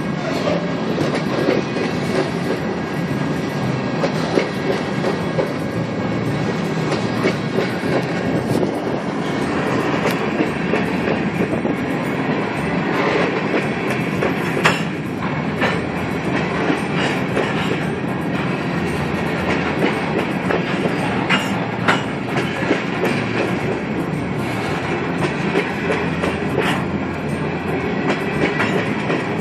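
Coal train's freight cars rolling past, steel wheels clacking over rail joints in a steady, dense clatter with scattered sharp clicks.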